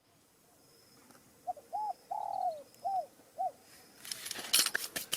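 A dove cooing: a short phrase of about five notes, the third longer and falling at its end. Near the end comes a brief spell of rustling and clicking.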